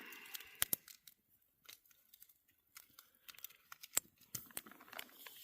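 A short rustle, as of a coffee packet being torn open, then sparse sharp crackles and ticks from a campfire.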